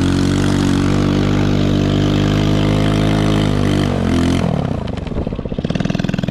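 Chinese 110cc ATV's small single-cylinder engine held at high revs for about four seconds, then falling back to a low, pulsing idle near the end.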